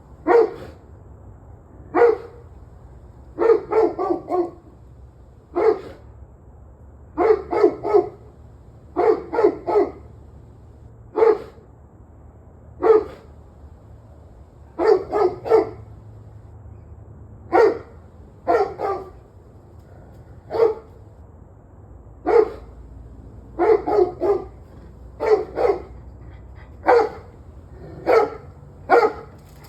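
A dog barking again and again: single barks and quick runs of two to four, every second or two, over a low steady hum.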